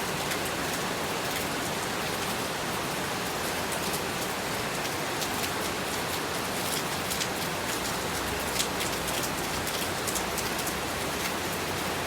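Heavy rain falling steadily, a dense hiss full of sharp drop ticks.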